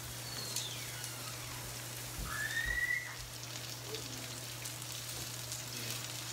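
Chicken and salmon frying in a little oil in pans on a gas stove, a steady sizzle over a low hum, with a short rising whistle about two seconds in.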